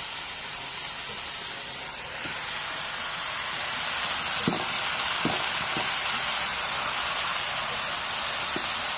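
Greens stir-frying in a non-stick pan, sizzling steadily and growing a little louder about two seconds in. A couple of light knocks, likely the wooden spatula against the pan, come around the middle.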